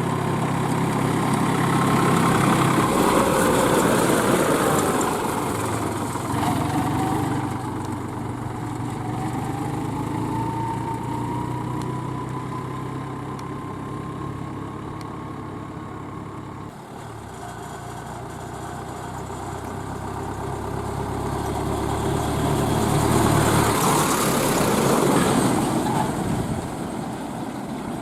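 Heavy diesel vehicle engines running as they go past, the sound swelling as one passes a few seconds in and again as another passes near the end.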